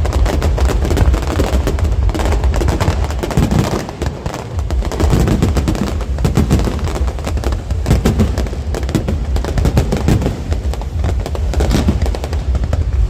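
Fireworks display: a dense, rapid barrage of bangs and crackling over a deep rumble, with a brief lull about four seconds in.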